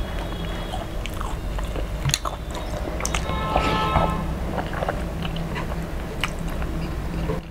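Close-miked, wet chewing and biting of fried fish and rice by hand, with many short sharp clicks and smacks. A steady low hum runs underneath.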